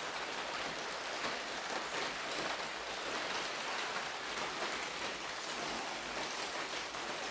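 Steady rain falling on a tarpaulin over an unglazed roof-window opening: an even hiss with faint separate drop hits.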